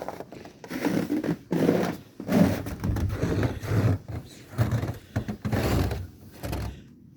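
Footsteps crunching through frozen snow, an uneven run of crunches and scrapes about one to two a second.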